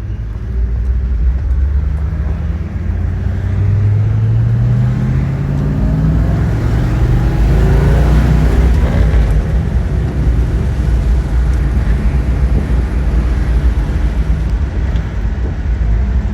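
A 1967 Buick GS 400's 400 cubic-inch V8 accelerating on the road, its pitch rising for several seconds before it settles into a steady run, with road noise underneath.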